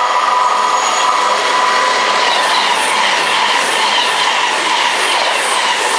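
A double-set Class 221 Voyager diesel-electric train passing close at speed: a loud, steady rush of engines, wheels and air. From about two seconds in it carries a regular beat of wheel noise, two to three a second, as the bogies go by.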